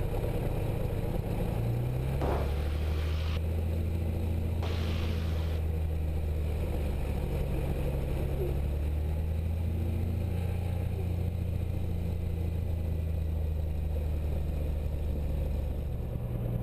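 Cessna 172's piston engine and propeller running steadily at low taxi power, with a slight change in engine note about two seconds in and again near the end. Two short bursts of hiss come over it early on.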